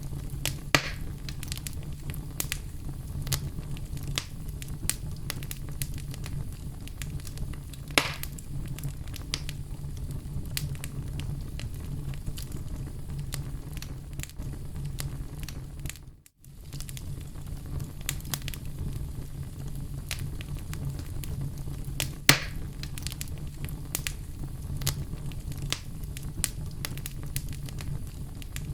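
Oak wood burning in a fireplace: steady crackling with many small pops and a few louder snaps, over a low rumble of the flames. The sound briefly cuts out about halfway through.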